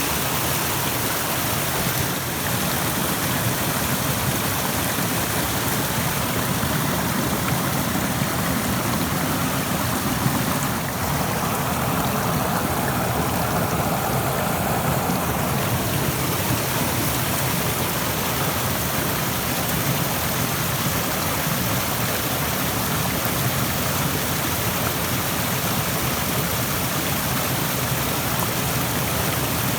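Rushing stream: water running fast over rocks, a steady full rush.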